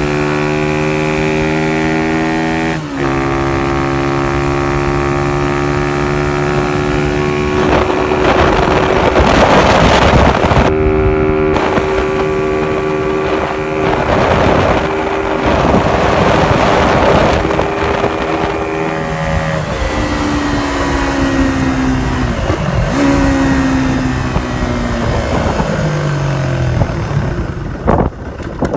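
Honda CY50/80 single-cylinder four-stroke motorcycle engine running through an alternative aftermarket exhaust. It holds a steady note, gets louder and rougher as it is revved twice, then its pitch sinks slowly as the revs drop.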